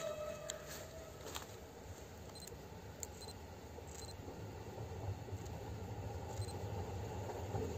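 Faint, distant electric multiple unit approaching along the line: a low rumble that slowly grows louder.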